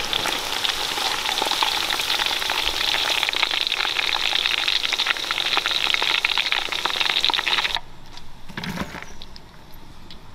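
Hot oil sizzling and crackling steadily as food deep-fries in it. The sizzle cuts off abruptly near the end, and a dull knock follows.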